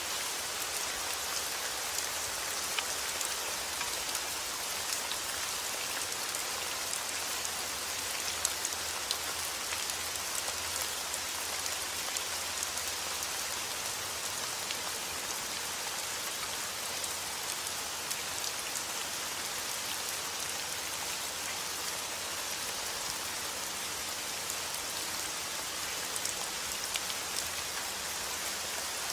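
Heavy rain falling steadily outdoors, a dense hiss with many individual drops pattering on surfaces.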